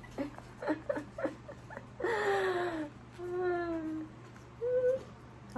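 A woman's wordless vocal sounds: a few short clicks and syllables, then a breathy exclamation falling in pitch about two seconds in, followed by a held, hum-like note and a short rising one.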